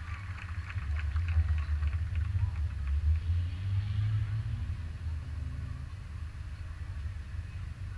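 Race car engine idling with a steady low rumble, with a few faint ticks in the first few seconds.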